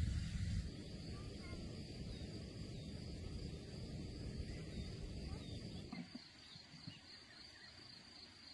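Countryside ambience: a steady high insect trill with scattered short bird chirps, over a low rumbling noise that falls away about six seconds in.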